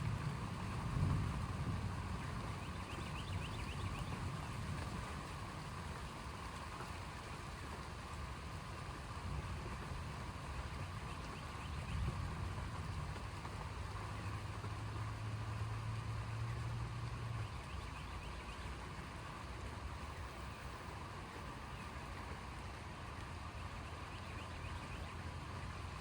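Low thunder rumble tailing off over the first couple of seconds, leaving a steady outdoor storm ambience with a faint hiss. A steady low hum comes in about halfway through and stops a few seconds later.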